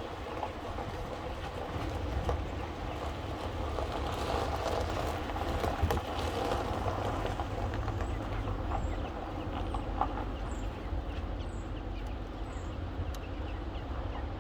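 Button quail chirping: a run of about six short, high, falling chirps roughly a second apart in the second half, over a steady low rumble with faint scratchy clicks.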